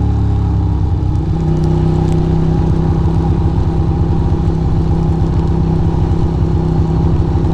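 Ducati Monster's V-twin engine pulling away, its pitch rising for about the first second, then running at a steady pitch while the motorcycle cruises.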